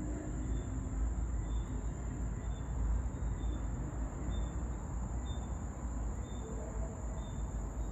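Outdoor ambience dominated by wind rumbling on the microphone, with a steady high-pitched whine and faint short chirps repeating about once a second.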